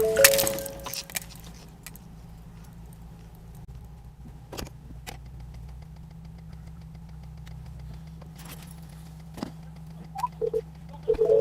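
The tail of a car crash: debris and glass tinkling in the first second. Then a steady low vehicle hum with a few sharp clicks, and a few short beeps near the end.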